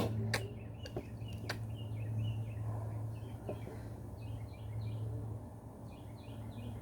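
Birds chirping in repeated short calls over a steady low hum, with a few sharp clicks in the first second and a half.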